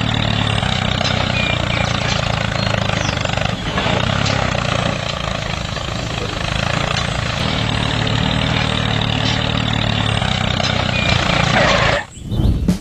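Small motor of a DIY mini tractor running steadily with a mechanical drone, cutting off suddenly near the end.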